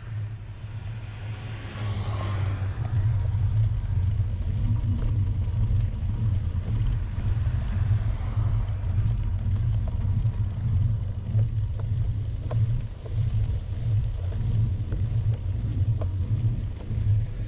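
Steady low rumble of wind buffeting the microphone of a camera riding along on a moving bicycle, with road noise underneath and a level that wavers.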